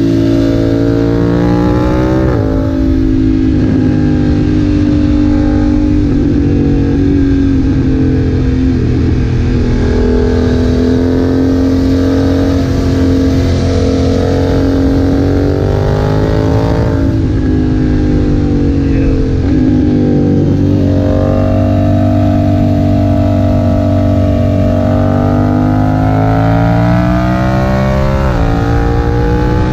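BMW F900R's parallel-twin engine through a Leo Vince aftermarket exhaust, pulling under load while riding. Its pitch climbs and then drops sharply about five times as the rider runs through the gears and on and off the throttle.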